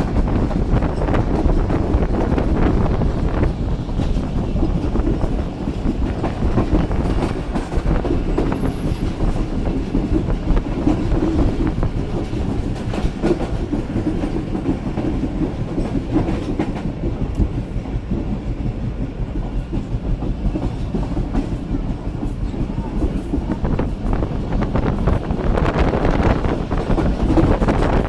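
Pakistan Railways Tezgam passenger express rolling past on the track, its wheels clattering over the rail joints in a steady, loud stream.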